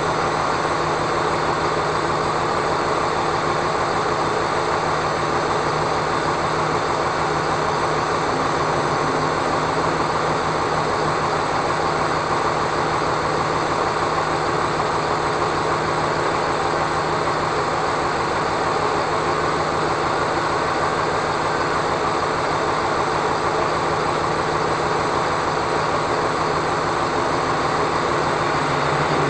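Steady engine and road noise of a moving vehicle, an even rumble and hum with no break or change.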